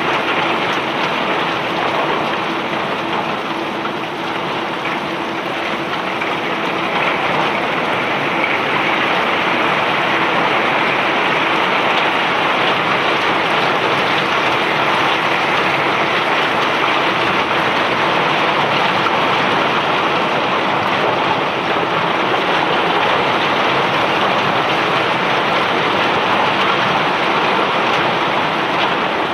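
Steady rushing patter of bulk rock or ore pouring off a self-unloading barge's discharge conveyor, with a faint machine hum that fades out about six seconds in.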